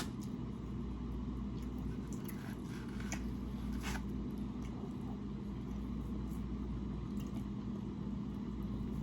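A person chewing and biting food close to the microphone, with a few short wet clicks and smacks, over a steady low hum.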